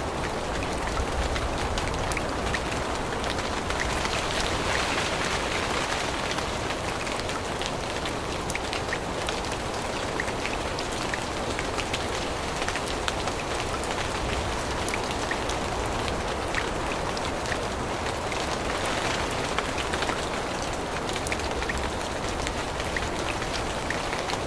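Steady rain falling in a forest, with many separate drop hits ticking over a constant hiss.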